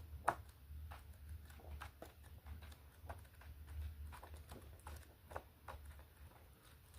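Faint, irregular light taps and clicks of objects being handled, the sharpest just after the start, over a low steady hum.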